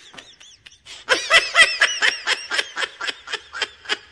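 High-pitched giggling laughter: faint at first, then from about a second in a long, even run of quick giggles at about six a second.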